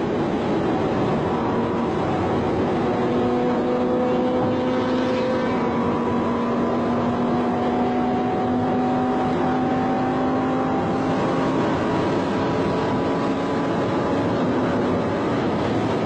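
A vehicle engine running steadily at high revs, its pitch creeping slowly up over several seconds as it gains speed, over a steady rush of noise.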